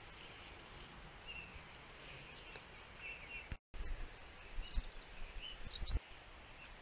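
Faint outdoor ambience with small birds chirping now and then in the distance. After a brief cut in the sound about halfway through, low rumbles and a few soft knocks come in.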